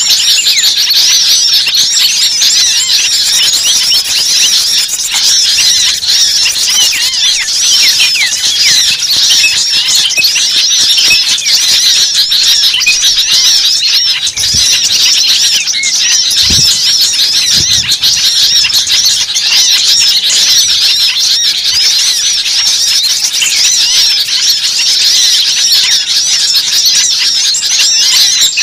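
A dense, noisy chorus of many small birds giving rapid high chirps, squeaks and trills all at once, without a break, as used in a lure recording to draw small birds in.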